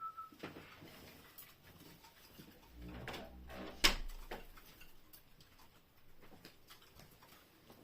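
A short single chirp right at the start, then scattered light clicks and knocks; the loudest is one sharp click about four seconds in.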